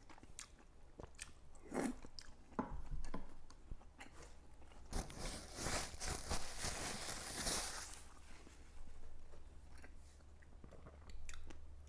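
A person chewing and crunching food close to the microphone, with scattered bites and a denser stretch of crunching in the middle.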